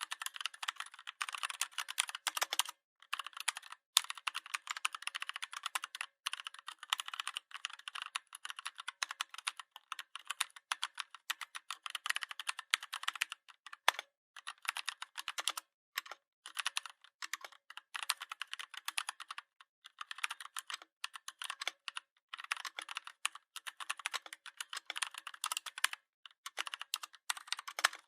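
Fast typing on a computer keyboard: a dense, uneven run of key clicks that stops for a moment a few times.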